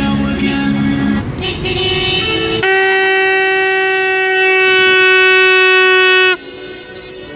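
Celebratory car-horn honking: one horn sounds for about the first second, then a single horn is held in one long steady blast of about three and a half seconds over a hum of traffic and street noise.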